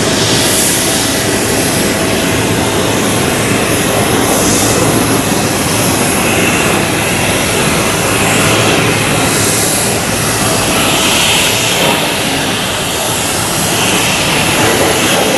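Jet engines of an Airbus A320neo (A320-271N), Pratt & Whitney geared turbofans, running loud and steady as the airliner moves on the runway.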